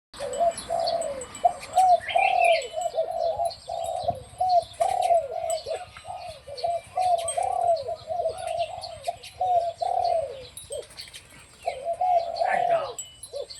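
A decoy dove cooing in a long, almost unbroken run of repeated notes, pausing briefly near the end before one more phrase, with fainter higher chirps of other birds.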